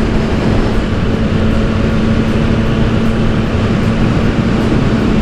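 Triumph motorcycle engine running at a steady cruise, holding one even note, under heavy wind noise on the helmet microphone.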